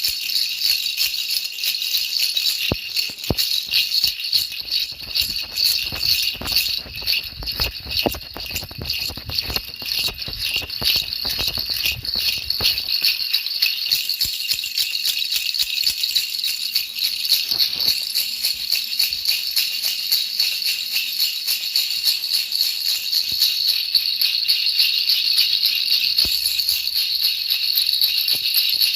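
A baby rattle shaken continuously, a dense, fast, steady jingling rattle that keeps going without a break, with a faint low rumble underneath for a few seconds early on.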